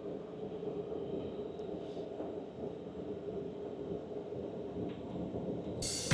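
Steady low rumble heard from inside a car sitting in a drive-through car wash. Music cuts in suddenly just before the end.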